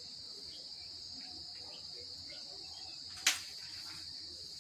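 Steady high-pitched chirring of crickets in the background, with one sharp click a little over three seconds in.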